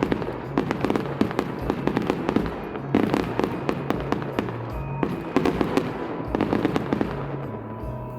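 Fireworks bursting and crackling in rapid, dense volleys, heaviest near the start and again around the middle, with music playing underneath.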